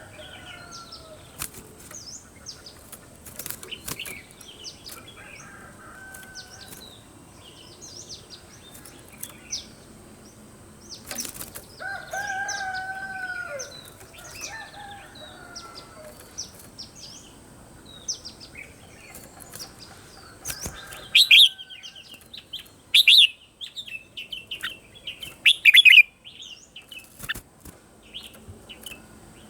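Red-whiskered bulbul singing: a string of short, quick chirpy phrases, with a longer whistled note near the middle and the loudest bursts of song in the last third, among scattered sharp clicks.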